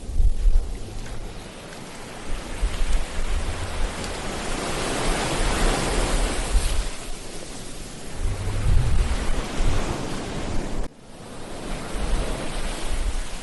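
Ocean surf on a beach: a wave swells and washes in with a long hiss that peaks about six seconds in, over a low rumble of wind on the microphone. The sound cuts out for an instant near the end.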